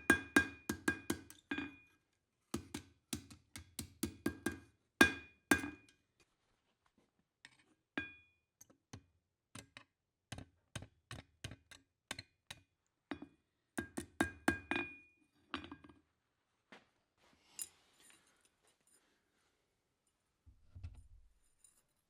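Hand hammer striking steel on an anvil in quick runs of blows, each strike with a bright metallic ring; between the runs come lighter, sparser taps, and near the end a single low thud.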